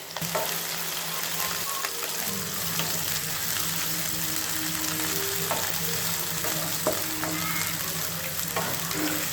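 Sliced onions and whole spices sizzling steadily in hot oil in a pan as they are stirred, with a few light taps of the spoon against the pan.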